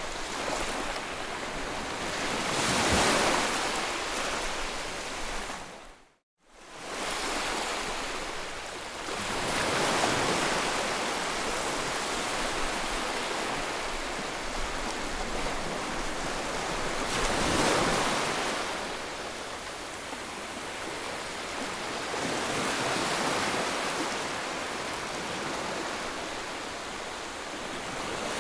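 Ocean surf: waves washing in and receding, the noise swelling and ebbing every five to eight seconds. About six seconds in the sound briefly dips to silence and fades back up.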